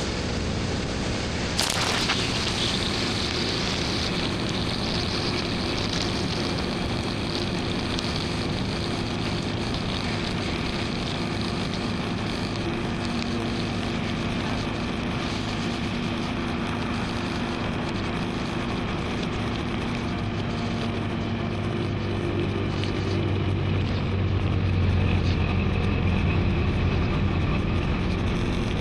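BMW R1250GS Adventure's boxer-twin engine with an Akrapovic slip-on exhaust, running steadily under way over wind and road noise. There is a sharp click about two seconds in, and the engine grows louder near the end.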